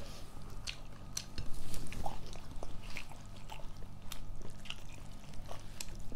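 Close-up eating sounds from a mukbang of a vegetarian meal: chewing and biting with small crunches and wet mouth clicks.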